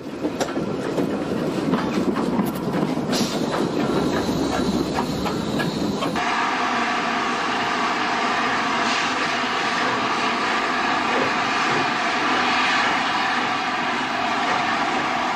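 A train running on rails, its wheels clattering in quick irregular strokes for the first several seconds. About six seconds in, the sound changes abruptly to a steadier running noise with a faint steady hum.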